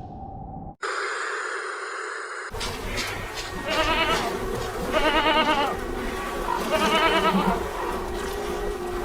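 An animal bleating three times, each call quavering, about a second apart, over a steady background sound.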